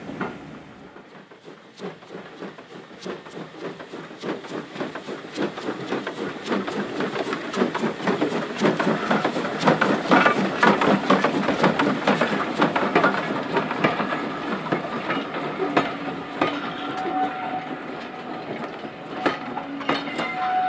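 Steam-hauled train passing, its wheels clicking rapidly over the rail joints. The clicking builds to its loudest about halfway through and then eases off, and a faint steady tone comes in near the end.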